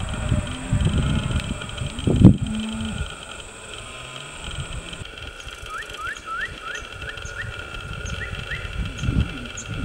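Outdoor field ambience. For the first three seconds low wind-like buffets hit the microphone, with a loud knock about two seconds in. From about five seconds in, a bird gives a run of short rising chirps, repeated quickly and then more sparsely, over a steady high buzz of insects.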